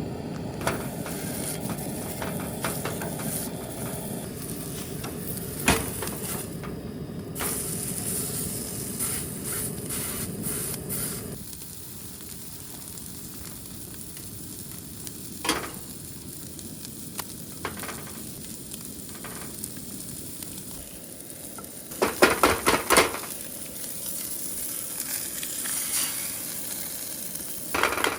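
Food sizzling as it fries in a pan, the hiss dropping lower about eleven seconds in. A few single sharp clicks, and a quick run of taps about 22 seconds in, sound like utensils against the pan.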